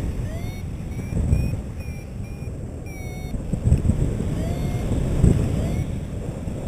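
Wind buffeting the microphone in flight, a gusting low rumble, with a run of faint short high-pitched beeps and chirps over it.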